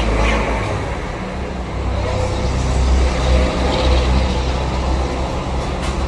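Steady low rumble of road traffic or a running vehicle engine.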